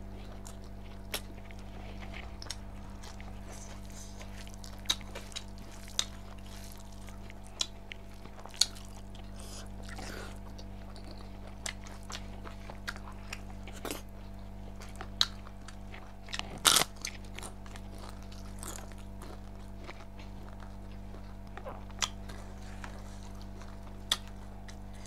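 A person chewing mouthfuls of rice and pork eaten by hand, with close-up mouth sounds: scattered sharp clicks, loudest in a short cluster about 17 seconds in, over a steady low hum.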